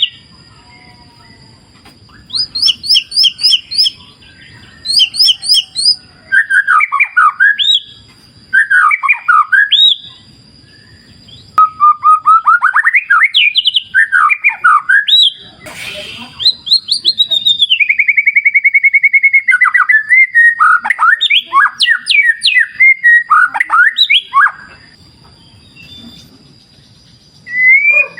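White-rumped shama (murai batu) singing loud, varied phrases of whistles, chirps and fast trills, broken by pauses of a second or two, with a long rapid trill just past the middle. Faint low rushing of river water fills the pauses under a thin steady high tone.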